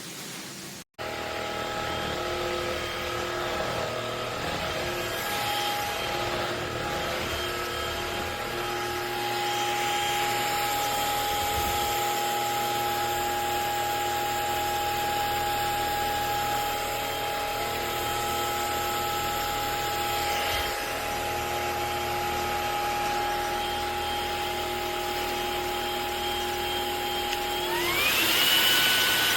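Cordless stick vacuum cleaner with a brushless motor running, a steady high whine over an airflow hiss. Near the end the motor's pitch rises and settles higher as it speeds up.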